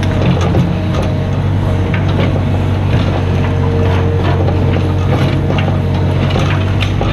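Mini excavator's diesel engine running steadily, with scattered clicks and knocks of metal from the work.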